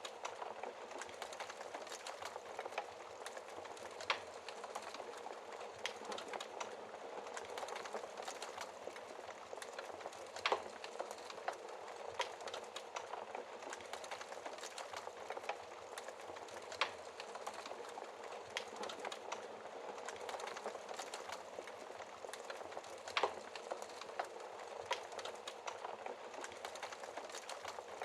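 Wood fire burning in a fireplace: a steady crackling hiss with frequent small snaps and a few louder pops, roughly every six seconds.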